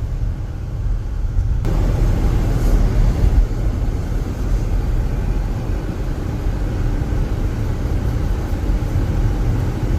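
Road noise of a car driving on a snowy highway, heard from inside the cabin: a steady low rumble of engine and tyres that grows louder and fuller just under two seconds in.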